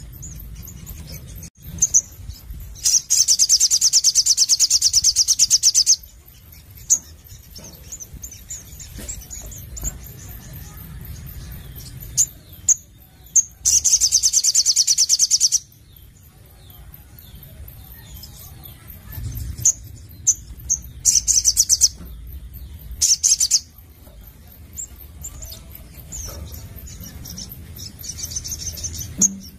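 Sogon (little spiderhunter) calling: several loud bursts of rapid, high-pitched repeated notes, each lasting one to three seconds, with softer scattered chirps between them.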